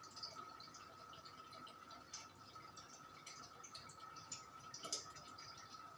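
Sanex 56-inch industrial ceiling fan running faintly: a steady thin whine with scattered light ticks.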